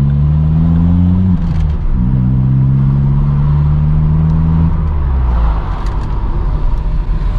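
Vauxhall Corsa D engine through a straight-pipe Hornet exhaust, loud while driving. The note rises, breaks off briefly about a second and a half in, holds steady, then falls away near five seconds, leaving road noise.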